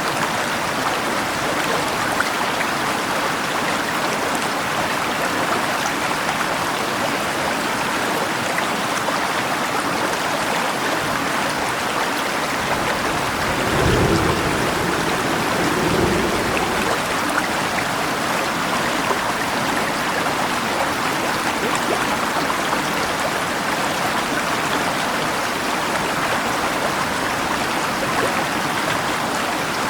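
Steady rush of a flowing river with rain falling. About halfway through, a low rumble of thunder swells twice over a few seconds.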